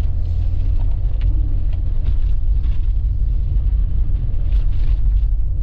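Car driving on a slushy, snow-covered road: a steady low rumble of engine and tyres.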